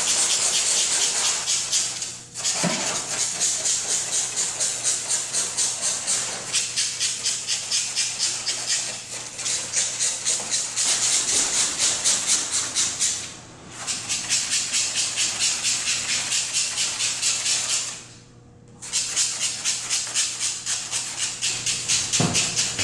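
Fast back-and-forth hand scraping over car paint crusted with polyurethane spray-foam overspray: a gritty rasp of about four strokes a second, with a few brief pauses. The rasp comes from the rough overspray under the tool and goes quiet once a patch is clean.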